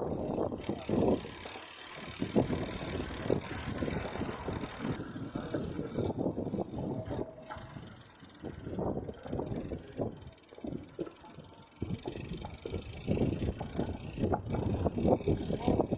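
Riding noise from a road bike on a wet city street: uneven rumble of tyres and wind on the microphone, rising and falling, a little quieter in the middle.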